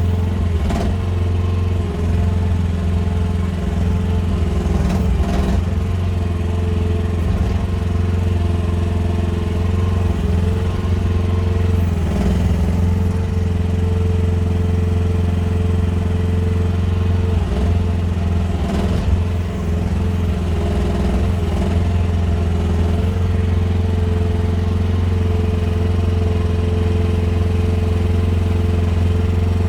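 QH13R mini excavator's engine running steadily, with a few short clunks now and then as it works moving logs.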